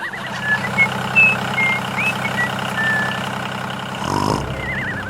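A small engine running steadily, with short high chirps over it and a warbling whistle near the start and again near the end.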